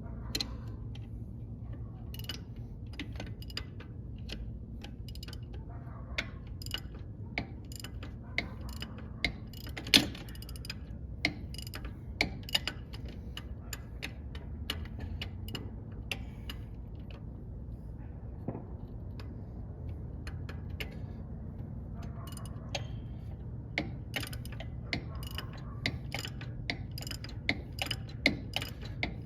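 Hand ratchet wrench clicking in irregular runs, with a sharp knock about ten seconds in and a steady low hum underneath.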